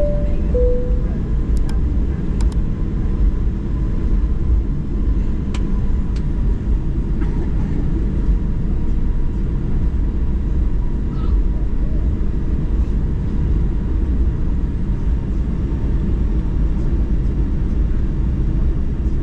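Steady low rumble of a Boeing 737-900's engines and airframe at taxi, heard from inside the passenger cabin. Right at the start a two-note high-low cabin chime sounds once.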